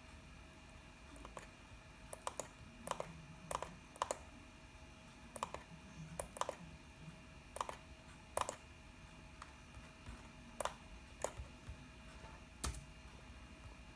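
Computer keyboard keys tapped in short, irregular runs of a few clicks at a time, over a faint steady hum.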